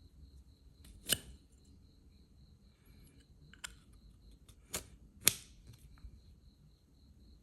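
Sharp metallic clicks from a pocket lighter with a horizontal striker wheel being handled, about four of them, the loudest about five seconds in.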